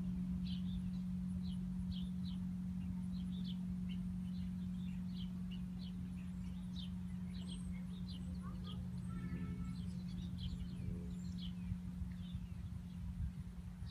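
Small birds chirping again and again, short high notes throughout, over a steady low hum and rumble; a brief pitched call comes in about two-thirds of the way through.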